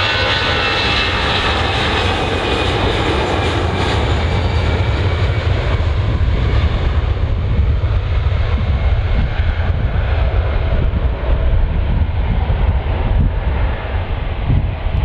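Jet airliner engines, loud: a high whine over the noise in the first few seconds, then the highs fade away while a deep low rumble carries on.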